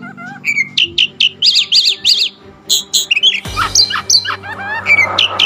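Oriental magpie-robin (kacer) singing a fast run of sharp, repeated high chirps and warbled notes, over a steady low hum.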